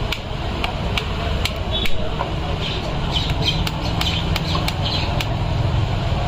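Sharp metal clicks at irregular spacing from a motorcycle timing chain tensioner being wound and handled with a screwdriver, over a steady low background hum. A few short squeaky chirps come about halfway through.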